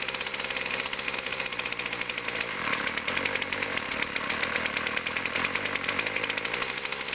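Small two-stroke weed whacker engine running with rapid, even firing on a cold start, choked and primed.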